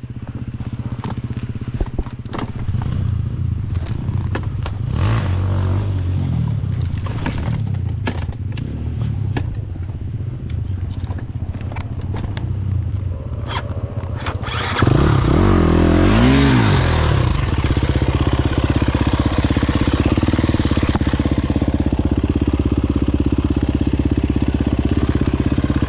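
Dirt bike engine running at low revs, its pitch rising and falling with the throttle, with scattered knocks and clatter. About 15 seconds in it revs sharply up and back down and then runs louder and steadier.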